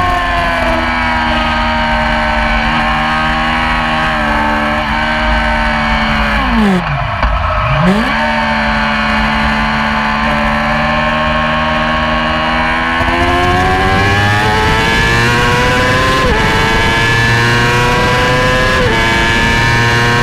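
Yamaha YZF-R6 inline-four racing engine at high revs on track. The pitch dips sharply twice, then climbs steadily as the bike accelerates, stepping at gear changes about 16 and 19 seconds in.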